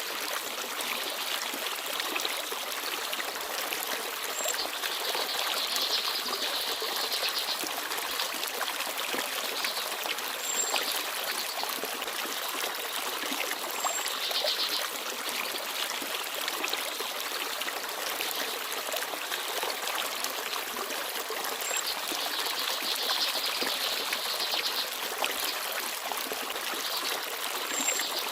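Small forest stream babbling and trickling steadily over stones, with a few brief, high bird chirps scattered through it.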